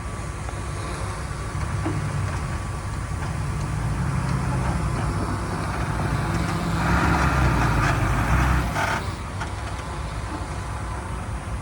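Heavy diesel engine of earthmoving equipment running, its low rumble building under load for several seconds. A rushing noise rides on top from about seven to nine seconds in, then the engine settles back to a steadier run.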